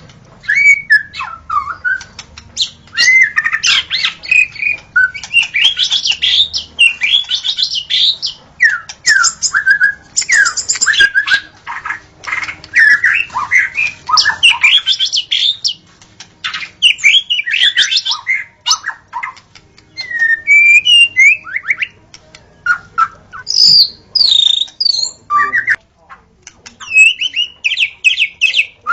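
White-rumped shama (murai batu) singing: rapid, varied phrases of high whistles and sweeping notes, broken by short pauses.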